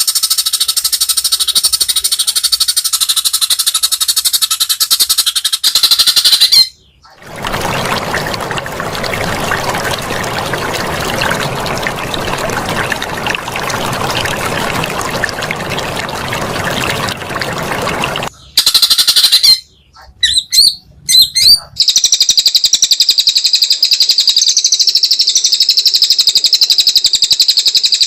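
Songbird singing in dense, rapid, high-pitched chattering trills, cut together from separate recordings. In the middle a long stretch of even harsh hiss stops abruptly, followed by a few short clipped fragments before the high trilling resumes.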